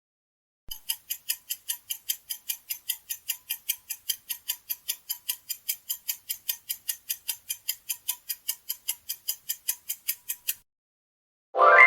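Clock-ticking countdown timer sound effect, about four crisp ticks a second for some ten seconds, then stopping. A loud ringing chime starts just before the end.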